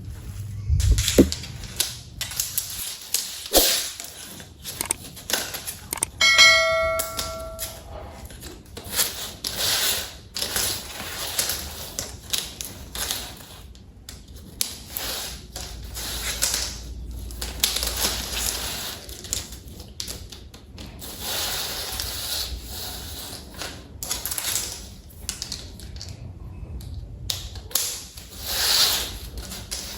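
Plastic toy train set parts being handled, with irregular clicks, taps and scraping, and a brief ringing tone about six seconds in.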